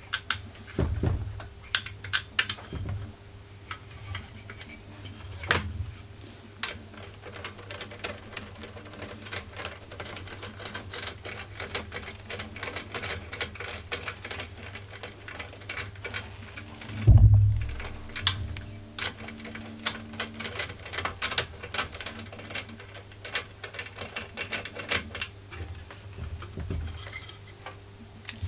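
A ratchet wrench clicking in quick runs of strokes as a muffler bolt is driven in. There is one loud, dull thump a little past halfway.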